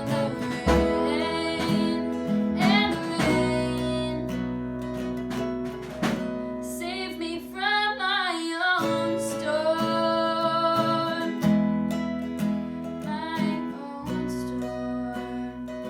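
A band playing a song: strummed acoustic guitar over a held bass line, with a voice singing through the middle.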